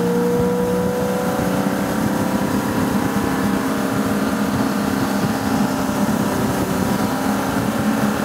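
Motorboat engine running at steady revs, heard from on board, with a slight rise in pitch and a rough wash of water and wind noise underneath.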